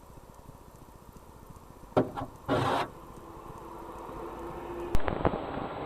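Road collision picked up by a car's dashcam: two or three sharp knocks about two seconds in, then a brief harsh crunch, followed by a faint steady tone over the engine and road noise.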